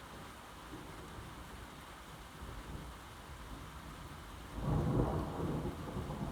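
Steady rain with a low rumble of thunder rolling in about four and a half seconds in, loudest a moment later and then easing off.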